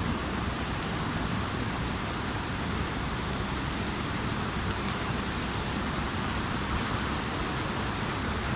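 Campfire burning with a steady hiss and scattered faint crackles of the burning wood.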